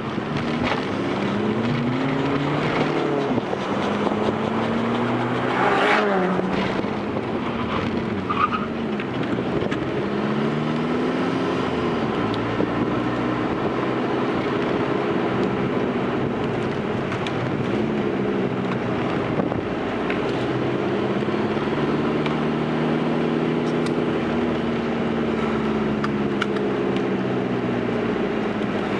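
Fiat Grande Punto's 1.9 Multijet diesel engine running under way, its revs rising and falling several times. There is a short sharp noise about six seconds in.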